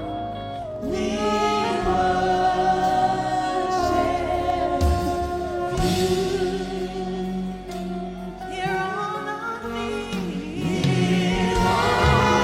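Gospel worship song: voices singing together in long held notes over instrumental accompaniment, swelling louder near the end.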